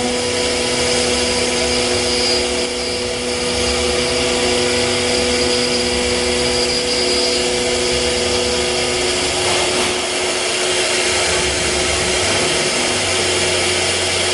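CNC router with a 6 kW HSD spindle running and machining: a steady, loud mechanical whir and hiss with a few steady hum tones that drop away about two-thirds through.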